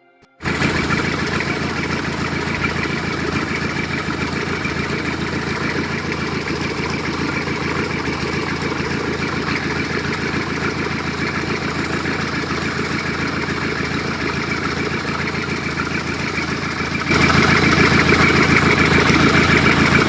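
Diesel engine idling steadily; near the end it abruptly gets louder without a change in pitch.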